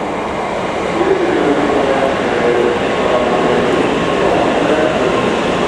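N700A Shinkansen train rolling slowly alongside the platform as it comes to a stop: a steady rolling rumble with faint humming tones that drift in pitch.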